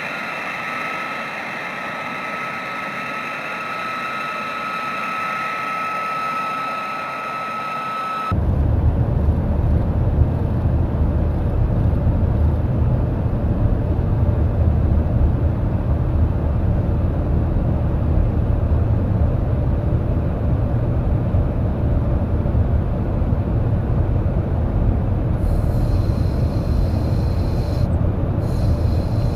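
Jet aircraft engine: a steady high whine with several held tones for about the first eight seconds, then a sudden switch to a louder, deep rumble that continues.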